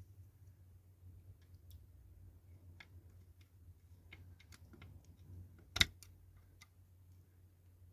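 Light scattered clicks and taps of small diecast and plastic model-car parts being handled and fitted, with one sharper click a little before six seconds in, over a faint low hum.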